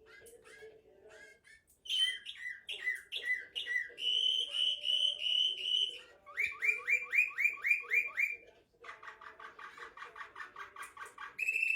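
Serbian Slavujar canary singing its nightingale-like song in separate repeated phrases. It is faint at first. About two seconds in it sings a run of falling notes, then a steady pulsing tone, then a series of rising strokes, and a rapid trill near the end.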